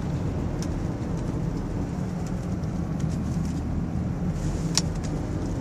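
Steady engine and road rumble heard inside the cabin of a moving four-wheel-drive vehicle, with a few faint clicks and one sharper tick near the end.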